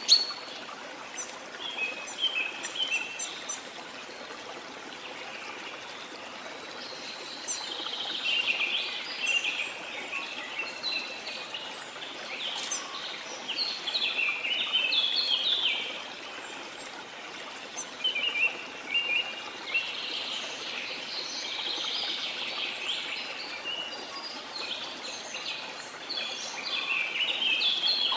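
Steady rush of a waterfall with forest birds calling over it in repeated runs of quick chirping notes, busiest in the middle and last part.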